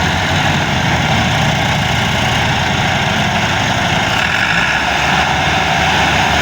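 Tractor diesel engine running steadily and hard, hauling a loaded sugarcane trolley.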